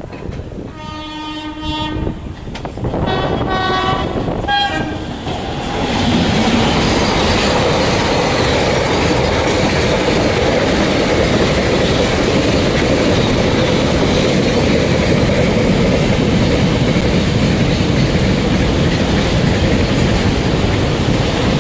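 Two blasts of a train horn, the first about a second in and the second a couple of seconds later. They are followed by the steady running noise of a suburban EMU electric train at speed, which grows louder about six seconds in.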